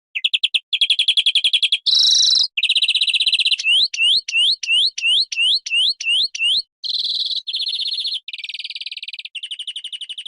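Bird song made of varied phrases: rapid high trills, then a run of about ten quick rising whistled notes at roughly three a second, then buzzy trills again. It starts abruptly out of silence.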